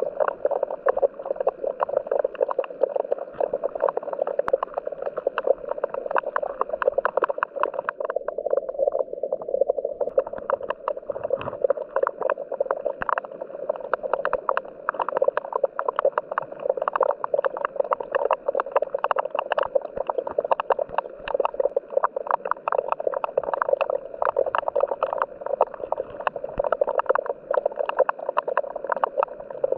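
Creek water rippling and gurgling over rocks, a steady crackling babble, with a steady high whine over it that breaks off for a couple of seconds about eight seconds in.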